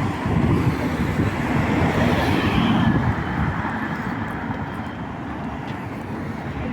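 Road traffic noise: a vehicle passes close by, swelling to its loudest about two to three seconds in and then fading into the steadier rumble of traffic.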